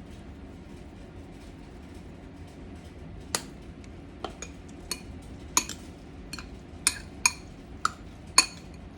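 A utensil clinking against a bowl while the pico de gallo is mixed: about ten sharp knocks with a ringing tone, at irregular intervals, starting about three seconds in. Before that there is only a low steady hum.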